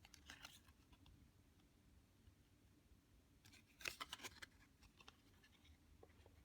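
Paper cards of a Lenormand deck being handled and flipped: a brief soft rustle just after the start, then a louder cluster of quick card clicks and rustles near the middle, otherwise faint with a low hum.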